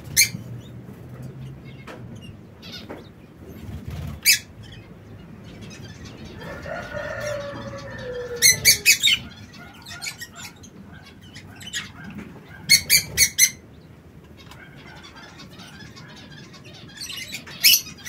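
Aviary birds making short, sharp, high-pitched sounds, singly and in quick runs of about four a few seconds apart. A lower call falls in pitch about seven seconds in.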